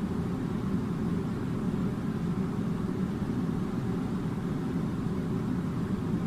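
Air conditioner blowing: a steady low rumbling rush of air with no change in level.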